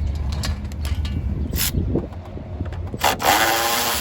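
Metal hand tools clicking and clinking while a small bolt is worked, with a longer rasping burst about three seconds in, over a steady low hum.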